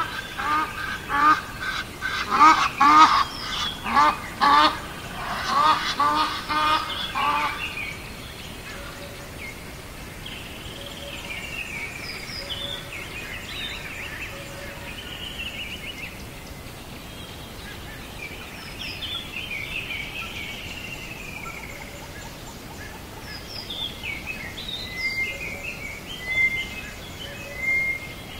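Birds calling: a rapid series of loud calls for the first eight seconds or so, then softer, higher chirps and short songs scattered through the rest.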